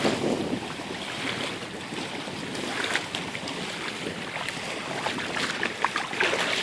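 Wind buffeting the microphone over lapping water, with a few short sharp sounds near the end.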